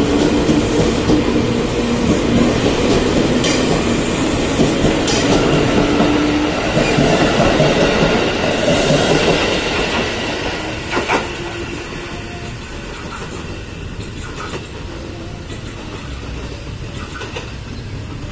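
Electric commuter train running past the platform: wheel and rail noise with clacking over the rail joints and a motor hum. It fades away after about ten seconds as the last car moves off, with one sharp clack just after.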